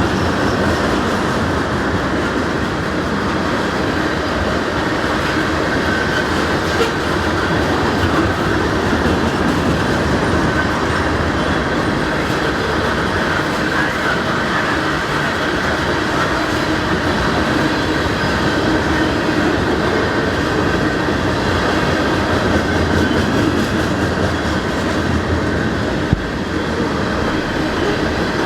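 Norfolk Southern freight train rolling past, its cars making a steady, unbroken noise of wheels on rail, with one sharp click near the end.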